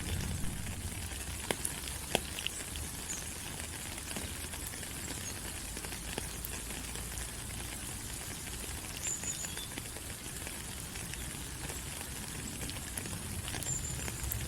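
Steady rain falling on rainforest leaves, an even hiss with scattered sharper drop clicks.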